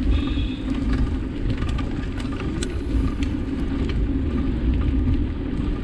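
Steady riding noise: a continuous low rumble with a droning tone, and wind buffeting the helmet-mounted microphone. There is a brief high chirp right at the start.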